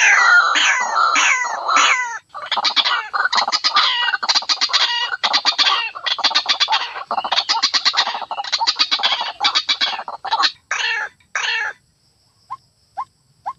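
White-breasted waterhen (ruak-ruak) calls, recorded: a run of repeated falling calls, then long stretches of fast stuttering notes in bursts. About twelve seconds in these break off into short notes, evenly spaced about two a second.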